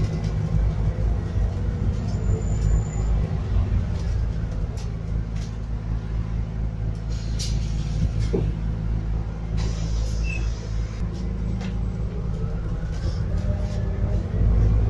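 Scania N280UD biogas double-decker bus heard from inside while under way: a steady low engine-and-road rumble whose pitch glides up and down as the bus speeds up and slows. A short hiss comes about ten seconds in.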